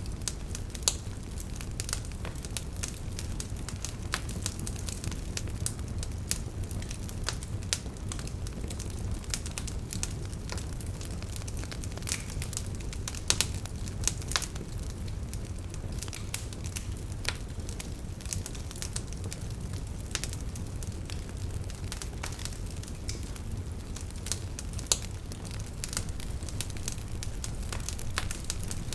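Wood fire crackling: irregular sharp pops and snaps over a low, steady rumble of flames.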